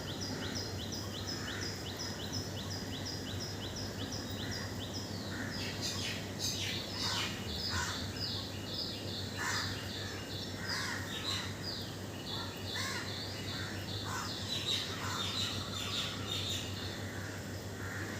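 Birds calling. A rapid series of high, evenly repeated chirps at about four a second runs for the first few seconds. It gives way to scattered, harsher calls, some of them caw-like, mixed with chirps, over a steady low background hum.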